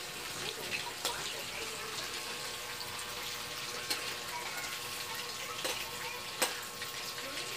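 Shrimp frying in hot oil in a metal wok: a steady sizzling hiss, with a few sharp clicks as a metal ladle knocks against the pan while the shrimp are turned.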